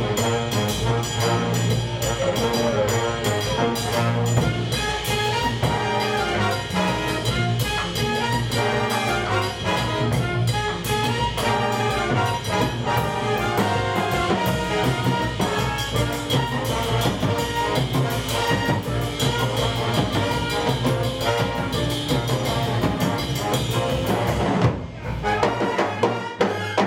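Jazz band playing, brass horns out front over bass and drums. The music thins out for a moment near the end, then picks up again.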